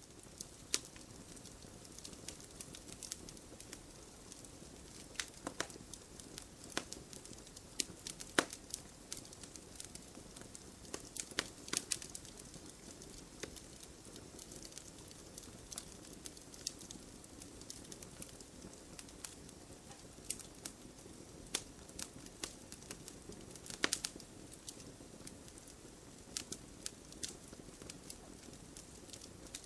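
Wood fire burning, with a low steady rustle of flames and irregular sharp crackles and pops from the burning wood, several louder pops among them.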